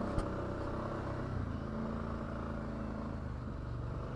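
ATV engine running steadily with an even hum, with one short click just after the start.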